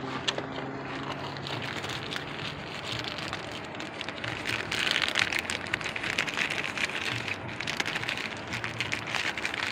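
Handling noise: dense crackling and rustling as the new purge control valve is turned over and shown close to the microphone. It grows busiest around the middle.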